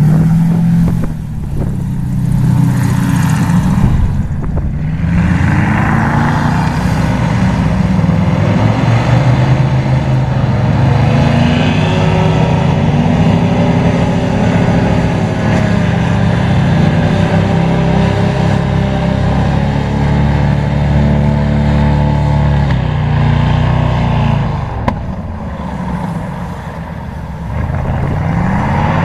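Airboat's Toyota 3UR 5.7-litre V8 engine driving a six-blade propeller, running hard. The pitch climbs in the first few seconds, holds steady, drops about 23 seconds in, then rises again near the end.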